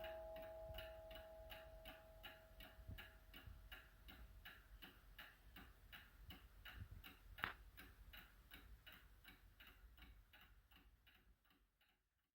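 Seth Thomas beehive mantel clock ticking faintly and steadily, about four ticks a second. It fades out near the end, with one sharper click about seven and a half seconds in.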